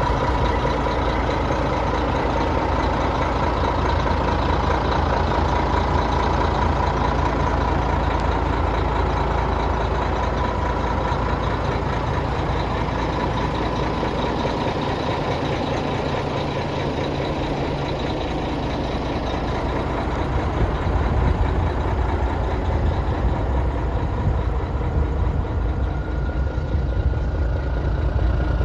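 Mack diesel engine of a heavy tandem-axle truck idling steadily.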